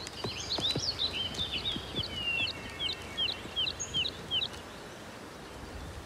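A songbird sings a rapid run of short, high, down-slurred notes, about four a second, which stop about four and a half seconds in. Under the song there is soft outdoor ambience with a few faint low knocks.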